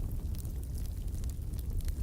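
Fireplace fire crackling: scattered sharp pops and ticks over a steady low rumble of burning.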